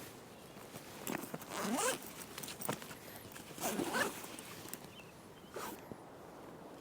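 A zipper pulled twice, each pull a short rising rasp, about two seconds apart.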